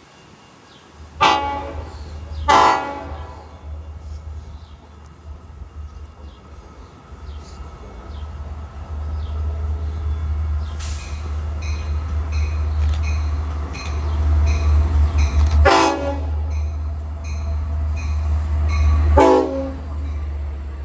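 Diesel train approaching and sounding its horn: two short blasts about a second in and two more near the end, over a low engine rumble that grows louder as it nears.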